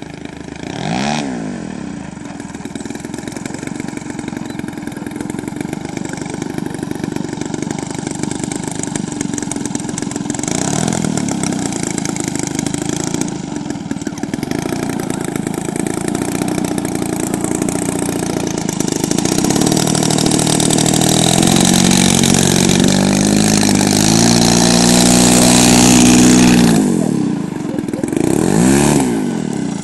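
Propeller airplane engine running as the aircraft flies past several times, its pitch sweeping up and back down on each close pass: near the start, about a third of the way in, and near the end. It builds to its loudest, most steady stretch in the later part before briefly dropping away.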